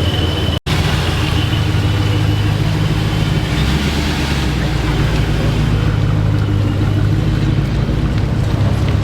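Car engine running steadily at low revs, a deep even rumble, with a momentary cut-out about half a second in.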